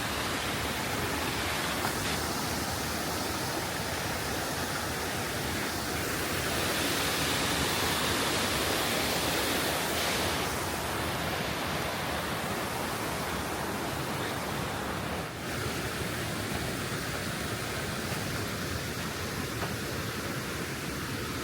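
Steady rushing of a mountain creek's flowing water, swelling a little for a few seconds partway through.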